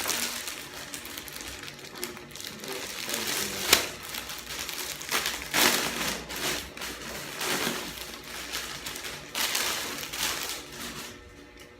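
Plastic packaging crinkling and rustling in irregular bursts as it is handled and opened, dying down about a second before the end.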